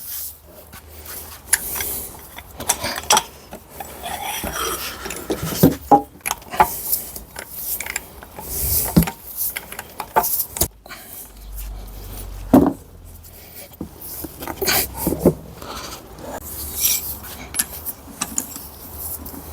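Metal tools and gearbox parts clinking, knocking and scraping in irregular bursts as the fifth-gear assembly of a manual gearbox is taken apart by hand.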